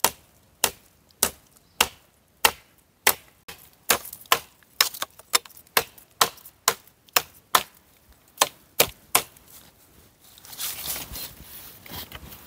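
A blade chopping into hard, dry wood: a steady run of sharp strikes, roughly two a second, that stops about nine seconds in. Rustling follows near the end.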